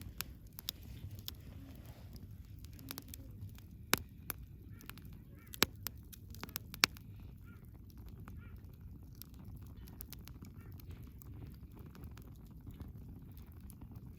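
Wood fire crackling: a steady low rumble of the flames with scattered sharp pops and snaps from the burning wood, three louder pops around the middle.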